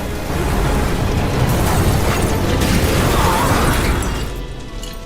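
Cartoon tornado sound effect: a loud, dense rush of wind and debris, with music underneath, dying away about four seconds in.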